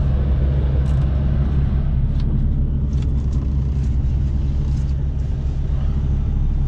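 International LT semi truck's diesel engine running at low speed, heard inside the cab as a steady low drone, with a few faint clicks and ticks.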